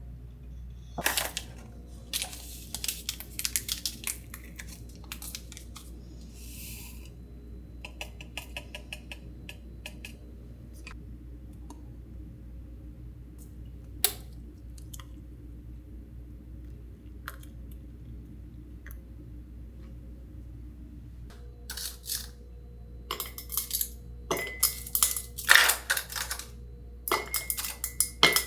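Light clinks and clatter of dishes and utensils, as scattered sharp clicks over a steady low hum: a cluster in the first few seconds, one lone clink around the middle, and a busier run of clatter over the last several seconds.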